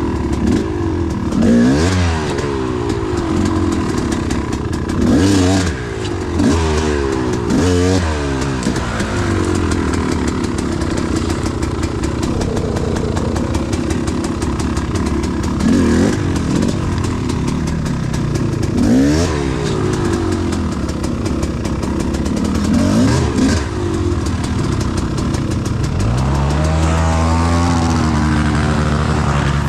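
Enduro motorcycle engine running close by, blipped up and down in short rev bursts again and again, then held at higher, climbing revs for the last few seconds.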